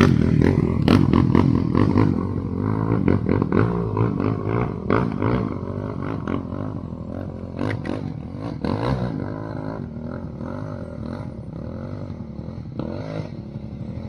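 Quad (ATV) engine running and revving, its pitch rising and falling, loudest in the first few seconds and then settling to a quieter, steadier run.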